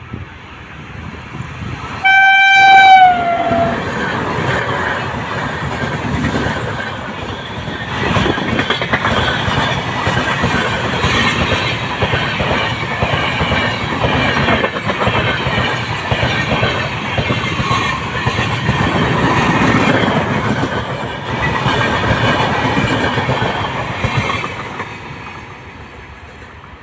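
Indian Railways passenger train arriving: the locomotive horn sounds once for about a second, dipping in pitch as it ends. Then the coaches roll past with steady wheel clatter over the rail joints, fading away near the end.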